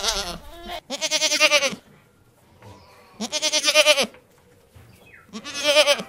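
Goats bleating: four separate quavering bleats, each lasting under a second, with short pauses between.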